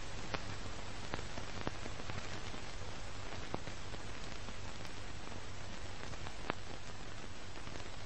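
Steady hiss with a low hum underneath and a few faint scattered clicks: background noise of the recording with no one speaking.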